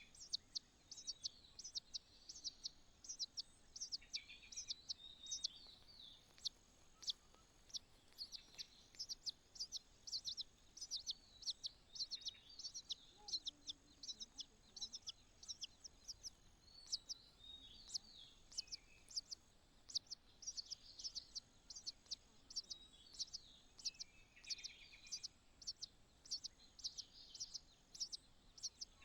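Nestling birds begging: rapid, high-pitched chirps, several a second, with short lower warbling notes every few seconds.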